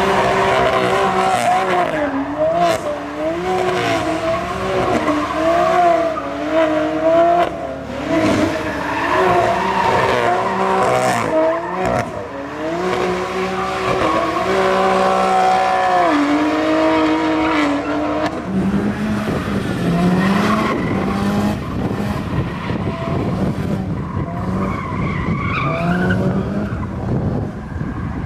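Sports car engines revving over and over, their pitch rising and falling. A lower-pitched engine wavers on near the end.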